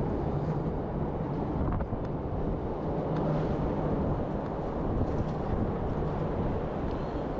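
Strong wind blowing across the microphone in a snowstorm: a steady low rumble with no breaks.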